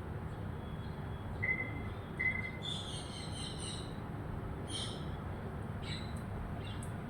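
Birds chirping: two short thin whistles, then a harsher chatter of calls, then a few single chirps, over a steady low background rumble.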